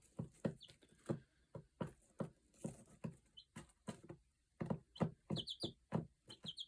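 Light clicks or taps at an uneven pace, about two or three a second, with a few quick high chirps from a small bird in short groups.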